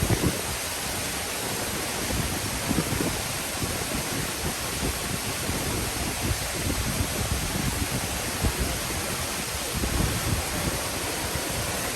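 Waterfall: the steady rush of falling water, with an uneven low rumble surging underneath.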